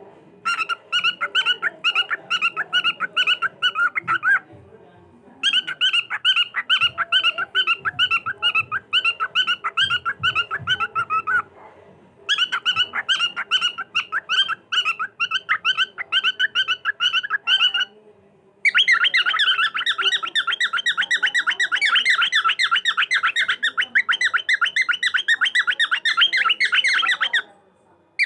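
Cockatiel chattering: fast, even runs of short, high chirps, about eight to ten a second, in four long bouts broken by short silent gaps. The last bout is louder.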